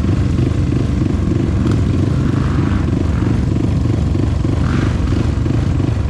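Off-road motorcycle engine running steadily at low revs with a pulsing exhaust beat, with a couple of brief louder swells about two and a half and five seconds in.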